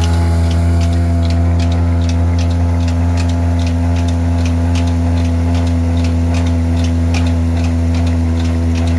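Old diesel engine running steadily with a deep, even hum and a regular light clicking, about three clicks a second.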